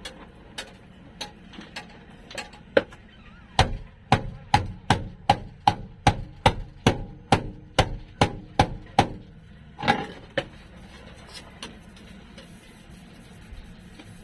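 Hammer blows on sheet-steel floor panel: a few light scattered taps, then a steady run of about fourteen hard strikes at roughly two and a half a second, each with a short metallic ring, and one last blow shortly after.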